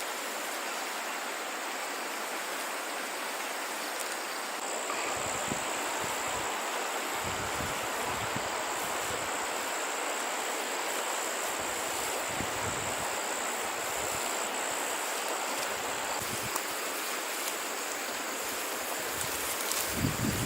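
Water running steadily, like a stream or flowing floodwater, with a steady high whine over it. Irregular low rumbles come in from about five seconds in, and a few knocks sound near the end.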